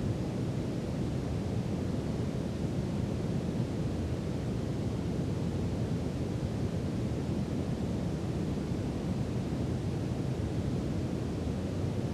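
Steady brown noise: an even, deep rushing hiss, heaviest in the low end, with no changes or events.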